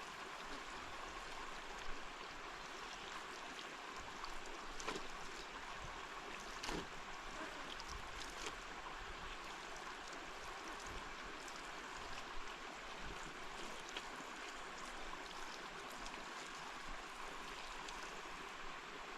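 Water running steadily, an even rushing hiss with a few faint clicks and knocks.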